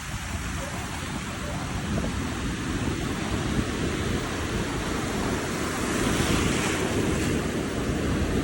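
Sea waves breaking and washing on the beach, with wind buffeting the microphone. The surf swells louder about six seconds in.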